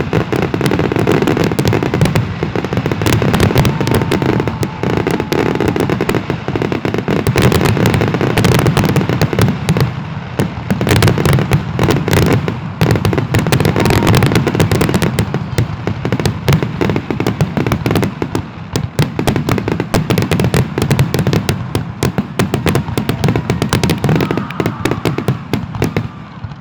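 Aerial fireworks finale: a rapid, continuous barrage of shell bursts and crackling reports overlapping one another, with no let-up.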